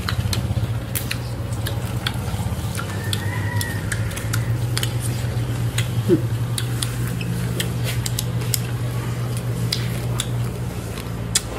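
A person chewing cooked bat, irregular sharp crunching crackles, over a steady low hum.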